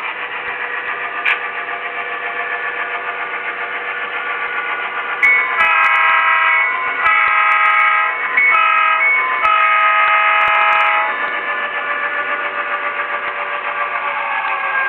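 A SoundTraxx Tsunami sound decoder in a model GP-9 locomotive plays a running EMD 567 diesel. About five seconds in it sounds a Nathan P3 air horn: two long blasts, a short one, then a long one, the grade-crossing signal.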